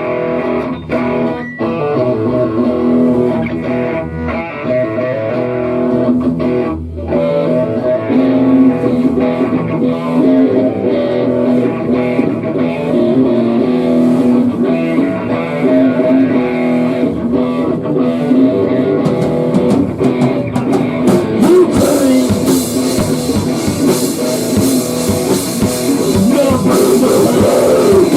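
Rock band playing: electric guitar holding sustained chords, with cymbals and drums coming in loud about twenty seconds in.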